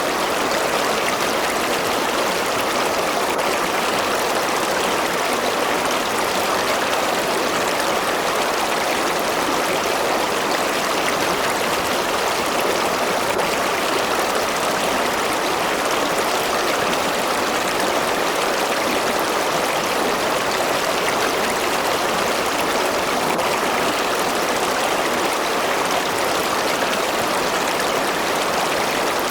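River water flowing over rocks: a steady, even rush and burble with no change.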